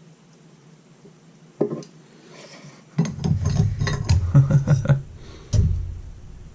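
Hard clinks and knocks of metal being handled: one knock, then a quick run of rattling clinks for about two seconds, then another knock.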